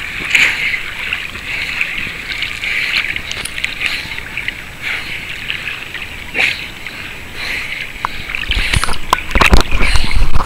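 Ocean water sloshing against a waterproof camera's housing at the surface, muffled and steady. Near the end come a run of loud splashes, like swimming strokes close by.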